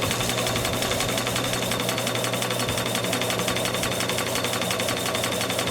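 Bolton model steam mill engine running on live steam just after start-up, with a rapid, even mechanical clatter.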